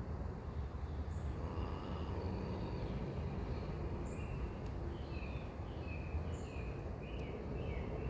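Birds chirping in short notes, more often in the second half, over a steady low rumble of outdoor background noise.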